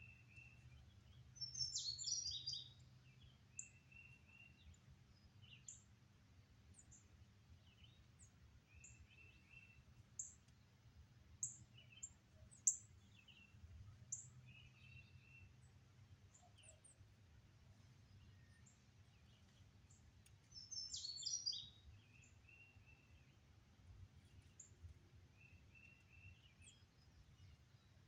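Wild birds singing and calling. A louder, busy song phrase comes twice, about two seconds in and again about twenty-one seconds in. Between them are many short, very high chips and repeated buzzy notes, over a faint low rumble.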